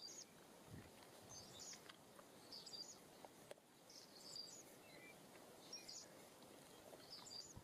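Near silence in woodland, with faint, short, high bird chirps repeating every second or so.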